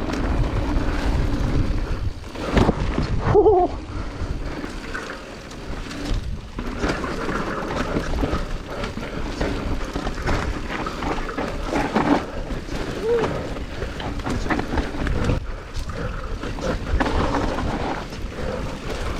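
Mountain bike descending a slippery dirt trail, heard through a GoPro Hero 9 action camera's own microphone: a steady wind-and-tyre rumble, with the bike knocking and rattling over bumps.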